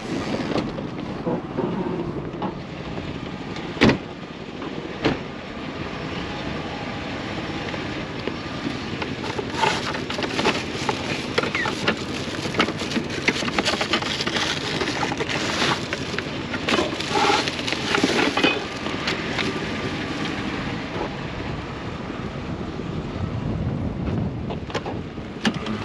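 A vehicle running steadily, with a few sharp knocks and a stretch of scattered clattering in the middle.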